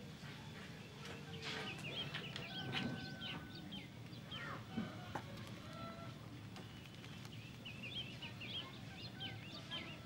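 Small birds chirping: clusters of quick, short calls from about a second and a half in, again around five seconds, and near the end, with a few longer single whistled notes between.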